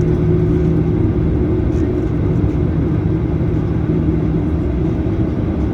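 Cabin noise of a Boeing 737-900ER taxiing, its two CFM56-7B engines running at low taxi power: a steady low rumble with a constant hum.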